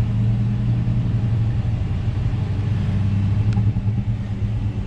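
Chevrolet 305 small-block V8 idling steadily with fresh oil after an oil change.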